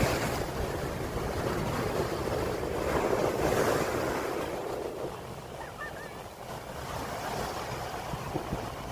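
Heavy surf of rough sea breaking and washing up the shore, with wind rumbling on the microphone. The waves surge loudest about three to four seconds in and ease off after about five seconds.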